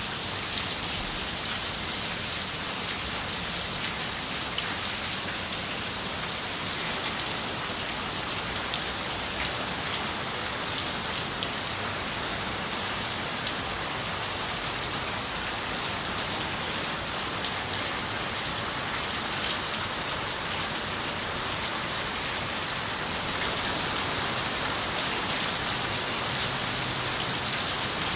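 Steady rain on a window, an even hiss with occasional individual drops ticking, getting a little heavier about three-quarters of the way through.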